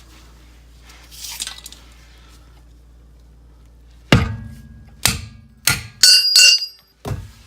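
Hammer striking metal, about six sharp blows starting about four seconds in, one ringing out. The blows are knocking a stuck driveline part loose.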